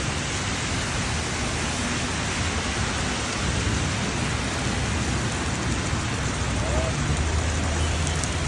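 Rain falling in a steady hiss, with a low rumble about seven seconds in.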